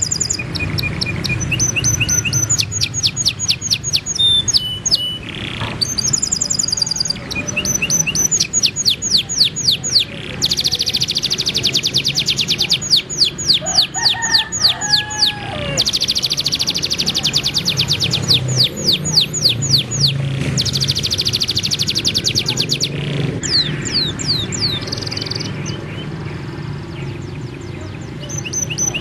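Layered songs of cage songbirds: white-rumped shama, domestic canary and kapas tembak. They sing continuous high-pitched fast trills and rapid runs of repeated notes, with several long dense trilled stretches, over a faint steady low hum.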